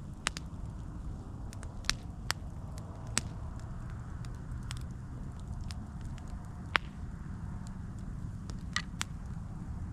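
Campfire burning: a steady low rumble of flames with sharp, irregular wood crackles and pops, the loudest a few seconds apart.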